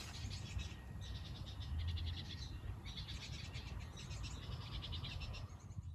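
A small animal's rapid, high-pitched pulsing trill, in long runs broken by short pauses, over a low rumble.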